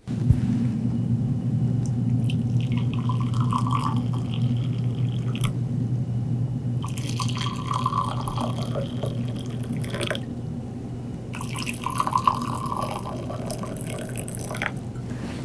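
Hot water being poured into three small glasses one after another, with short breaks about six and eleven seconds in.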